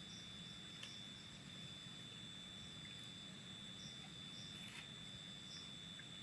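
Forest insects: a steady, high-pitched insect drone with short chirps repeating every second or so, and a couple of faint ticks.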